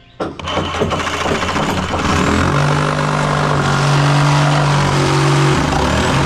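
Power saw starting up and cutting the bottom off a support piece: a sudden start, settling into a steady pitch about two seconds in, and running on under load with a brief dip near the end.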